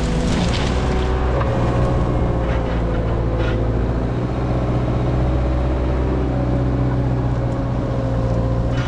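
Diesel engine of a heavy earthmoving machine running at a steady speed, a constant loud hum.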